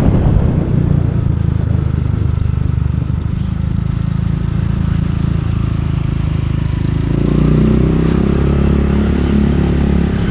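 Motorcycle engine running steadily under way, a dense low drone. About seven seconds in, the engine note changes and gets a little louder.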